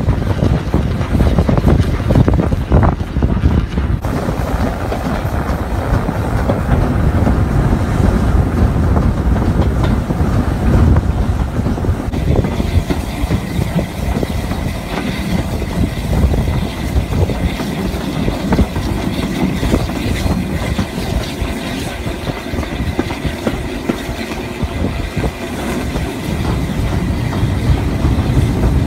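Steam-hauled passenger train behind S15 locomotive No. 847 running at speed, a steady rumble with wheels clattering over the rail joints, heard from an open carriage window with wind rushing over the microphone. The sound changes abruptly twice, around 4 and 12 seconds in.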